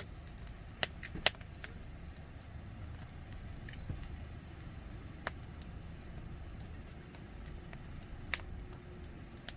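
Campfire burning, with a few sharp pops and cracks from the wood over a steady low rumble.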